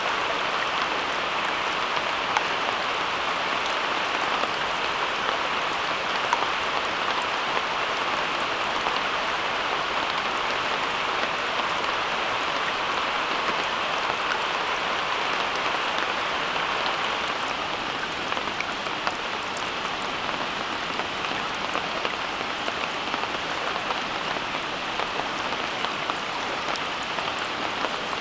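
Steady rain: an even hiss with faint scattered ticks of drops, easing slightly after about eighteen seconds.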